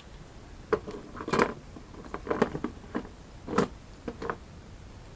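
Handling of Hot Wheels die-cast toy monster trucks: a string of about eight short, irregular clacks and knocks as the toys are picked up and set down.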